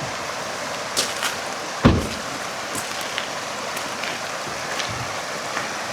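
Steady rush of fast-flowing floodwater, with scattered small ticks and one low thump about two seconds in.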